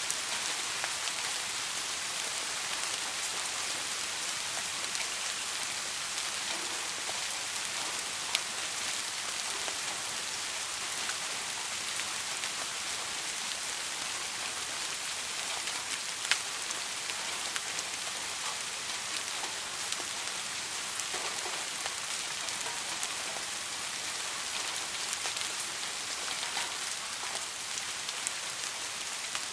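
Steady soft rain, an even hiss of falling drops with many small sharp drop ticks, two of them louder about eight and sixteen seconds in. No thunder.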